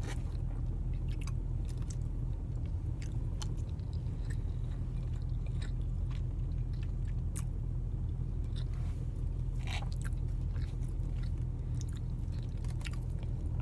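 Close-up chewing of a person eating, with many short wet mouth clicks, over the steady low rumble of a car's cabin.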